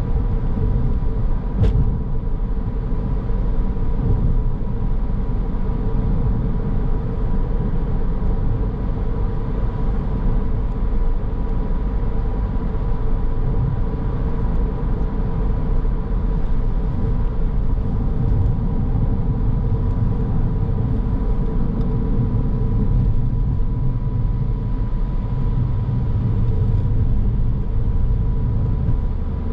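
Car driving along, recorded from the car: a steady low rumble of tyres and engine with a faint steady whine, and one sharp click a couple of seconds in.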